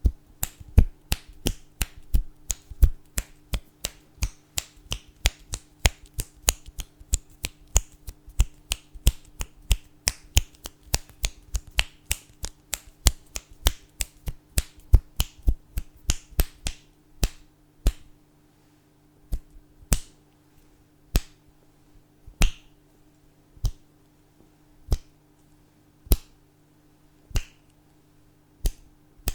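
Fingers snapping, fast at first with several snaps a second, then slowing to about one snap a second from a bit past halfway. A faint steady hum lies underneath.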